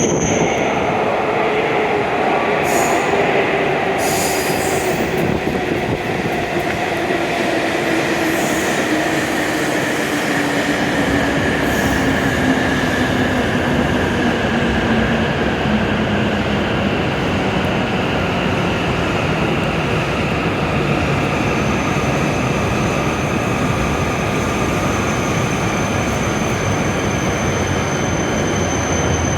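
E7 series Shinkansen train arriving and slowing at the platform, with a steady rush of wheels and running gear. Its whine falls slowly in pitch as it brakes, then levels off near the end as it comes to a stop.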